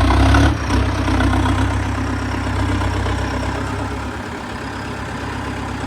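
Tractor's diesel engine running steadily at low revs, a little louder in the first second.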